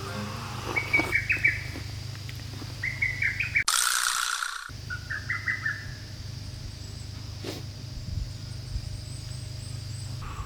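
A small bird chirping in three short phrases of quick notes, a couple of seconds apart, over a steady low hum.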